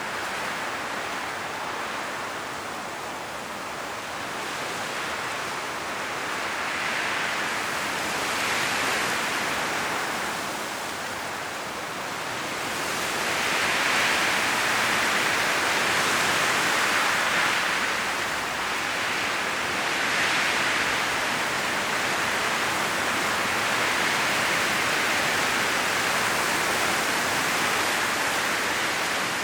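Strong wind rushing through trees, rustling the dry autumn leaves, rising and falling in gusts every few seconds and blowing harder from about halfway through.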